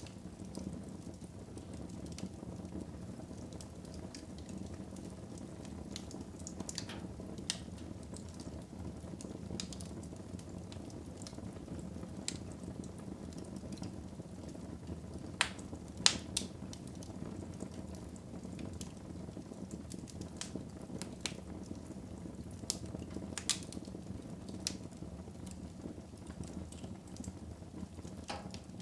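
Wood fire burning in a fireplace: a steady low rush of flames with scattered sharp crackles and pops, the loudest two close together just past halfway.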